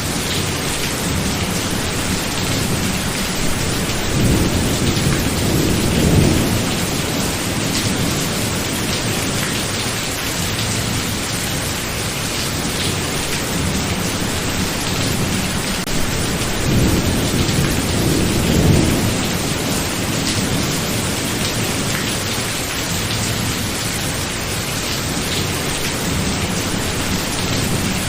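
Thunderstorm: steady rain with two long rolls of thunder, the first about four seconds in and the second about sixteen seconds in.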